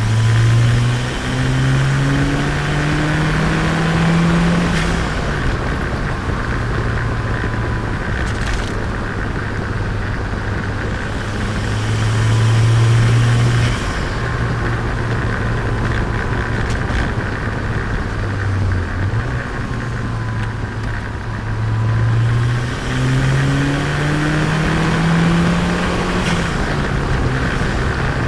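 Turbocharged Nissan Micra engine driving along, its note climbing in pitch in several steps as it accelerates through the gears in the first five seconds and again about three quarters of the way through, with steady cruising in between.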